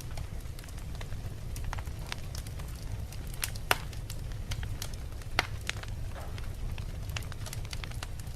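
Wood fire burning in a fireplace: a steady low rumble of flames with irregular sharp crackles and pops from the logs, two louder pops about four and five and a half seconds in.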